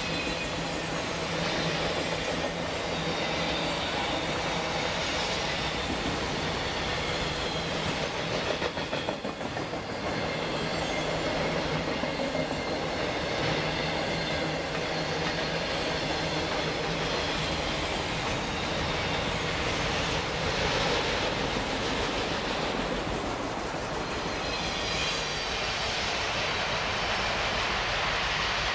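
Freight train of autorack cars rolling past close by: a steady noise of steel wheels running on the rails.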